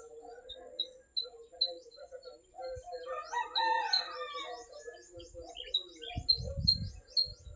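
Small birds chirping in short, quickly repeated notes, with a rooster crowing about three seconds in. A brief low rumble comes near the end.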